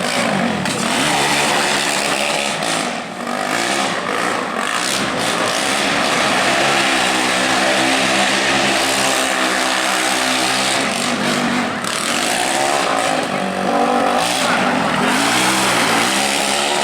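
Formula SAE race car's naturally aspirated Yamaha 449 cc single-cylinder engine, running on E100 ethanol, revving up and down. Its pitch holds steadier for a few seconds in the middle.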